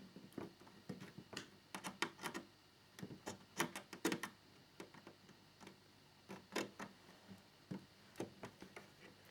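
Small screwdriver ticking and scraping against a tiny screw and the plastic fairing of a model motorcycle as the screw is turned in: light, irregular clicks with short gaps between them.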